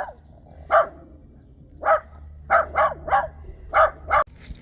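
A dog barking: about seven short, sharp barks in an uneven run, some in quick succession.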